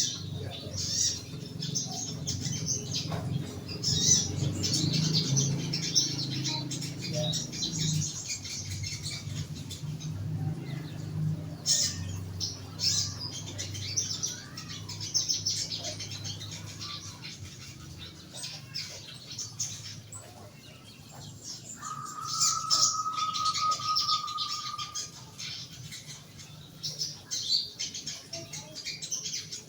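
A young sogon bird in a cage chirping with many short, high calls and fluttering its wings. A low hum under the first several seconds stops about a third of the way in, and a steady whistling tone is held for about three seconds near the two-thirds mark.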